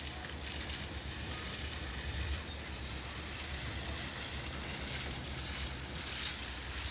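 Wind blowing across the microphone: a steady low rumble under an even hiss.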